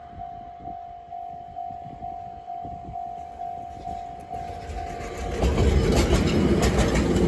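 Railway level-crossing alarm ringing in an even pulse, about two rings a second. About five seconds in, a DE15 Russell snowplow diesel locomotive passes close by, and its engine and wheels grow loud and drown out the alarm.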